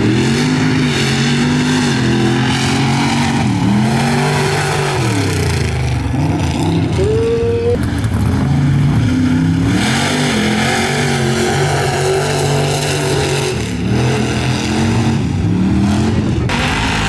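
Mud truck engine revving hard, its pitch rising and falling again and again, with one sharp climb to a high rev about halfway through.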